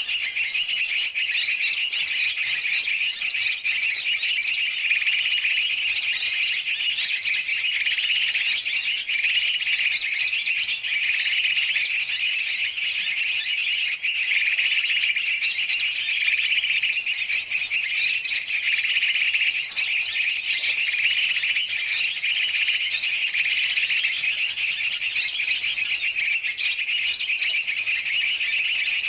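Dense, unbroken chorus of many birds chattering and chirping at once, large and small birds mixed. It is a bird-trapping lure (pikat) recording made to draw in birds such as yellow-vented bulbuls.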